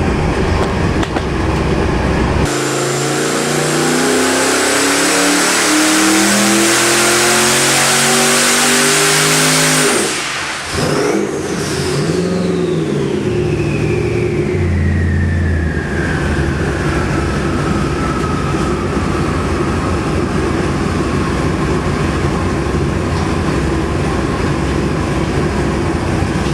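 Twin-turbo 427 small-block Chevy V8 making a full-throttle dyno pull: the engine note climbs steadily for about seven seconds with a turbo whine over it. The throttle closes suddenly about ten seconds in, and the turbochargers' whistle then falls slowly as the engine settles back to a steady idle.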